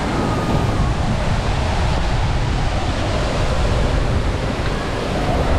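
Madhabkunda waterfall's falling water roaring steadily: a loud, even rushing noise with a heavy low rumble.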